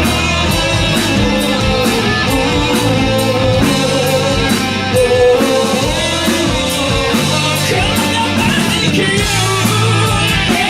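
Live hard-rock band playing: electric guitar over bass and a steady drum beat.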